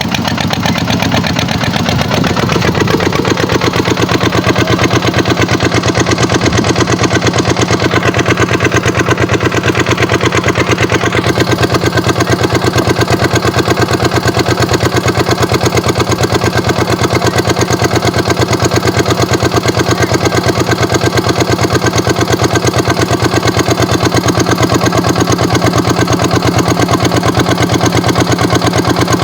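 Kubota tractor's diesel engine running steadily, with an even pulsing note that settles after the first couple of seconds.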